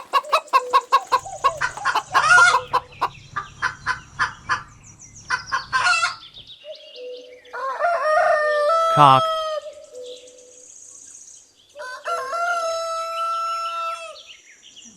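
Hen clucking in quick repeated clucks, then a rooster crowing twice in long drawn-out crows about halfway through and near the end.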